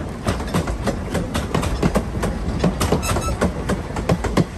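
Vintage wooden passenger coaches rolling past, their wheels clattering over the rail joints in quick, irregular clicks over a steady low rumble, with a brief high-pitched squeal about three seconds in.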